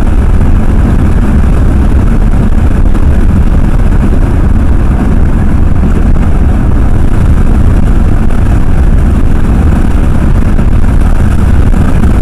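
Ford F-350 pickup truck driving at road speed, a loud steady rumble of engine and road noise heard from inside the cab.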